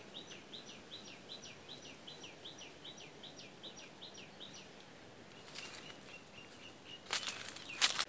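A small bird calling: a fast run of short, high, falling notes, about four a second, followed by a softer steady trill. Near the end, leaves and branches rustle loudly against the phone as it moves.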